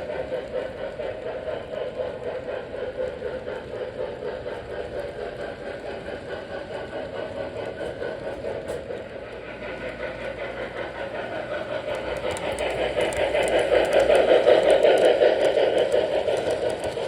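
Model train running on a layout: an electric motor hum with a fast rhythmic clatter of wheels on track, growing louder as the train passes close about 14 to 15 seconds in, then easing off.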